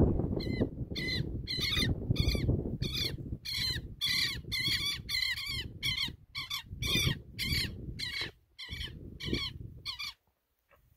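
A bird gives short, harsh calls over and over, about two a second, stopping about ten seconds in. Wind rumbles on the microphone underneath, strongest in the first half.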